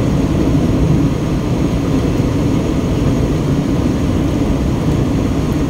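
Steady road and engine noise inside a moving car's cabin at highway speed.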